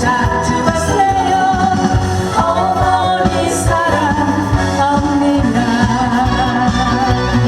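A singer performing a Korean trot song live over a backing track with a steady beat.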